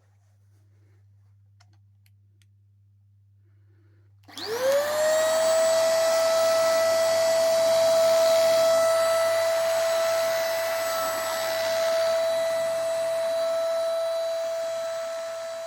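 A Girmi AP21 handheld mattress vacuum with a 300-watt motor, switched on about four seconds in: the motor spins up with a rising whine and settles into a steady high whine over the hiss of rushing air. Before it starts there is only a faint mains hum.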